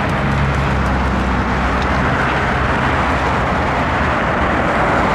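Loud, steady jet roar from a Boeing 757-200's engines as the airliner rolls out after touchdown, with a low hum underneath.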